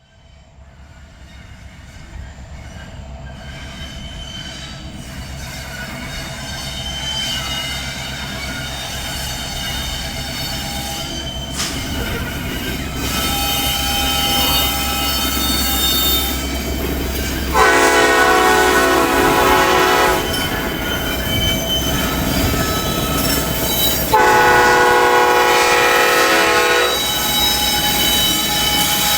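Freight train drawing closer: the diesel locomotives' steady drone grows louder while the wheels squeal thinly against the rails. The locomotive horn sounds two long blasts past the middle and starts a third at the very end.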